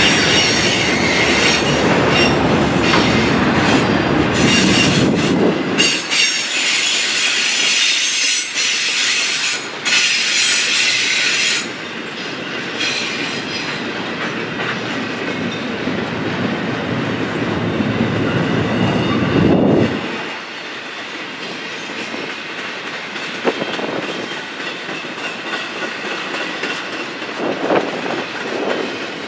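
Railroad train passing, with wheels squealing on the rails and clicking over rail joints. The squeal dies away about halfway through, and the rumble drops off abruptly about 20 seconds in, leaving a quieter stretch with a few clicks.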